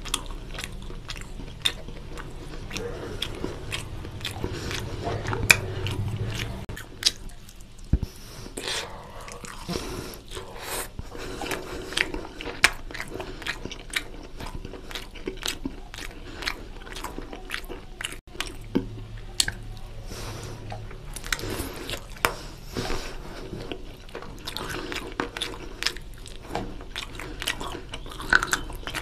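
Close-miked eating of chicken curry and rice: chewing and wet lip-smacking, with many short sharp mouth clicks throughout.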